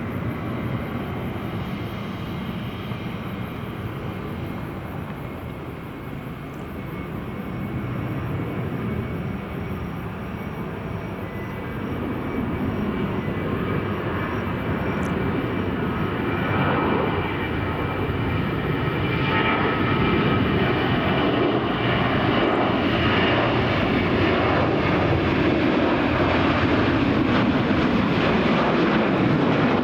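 Jet engines of a Boeing 737-800 airliner running, a steady noise that grows louder from about the middle on.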